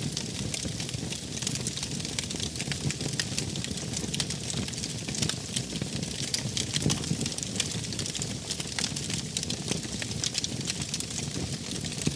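Wood fire burning steadily, crackling with many small sharp pops over a low rumble of flames.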